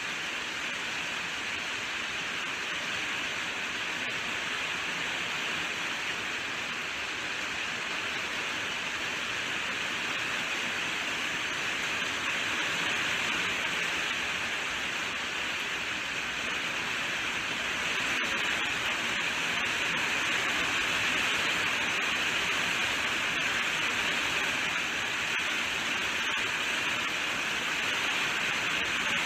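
Steady rainfall, an even hiss of rain, a little louder about two thirds of the way through.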